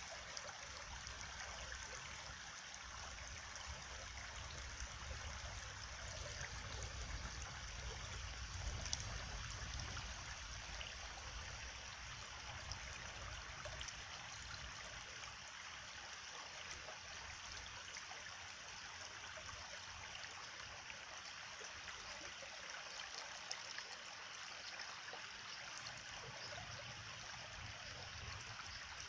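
Steady flowing water, like a stream, with a low rumble underneath that swells and fades.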